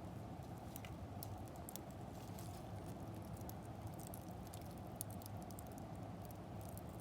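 Wood fire burning in the firebox of a wood-fired bath: many irregular sharp crackles and snaps over a steady low rumble of the flames.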